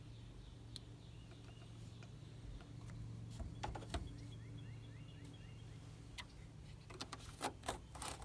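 Faint birds chirping in short repeated calls over a low steady hum, with a few handling clicks and knocks near the end.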